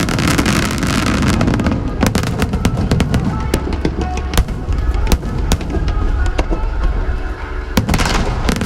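Aerial fireworks going off: a dense run of sharp cracks and pops over deep booming rumble, with hissing crackle bursts at the start and again near the end.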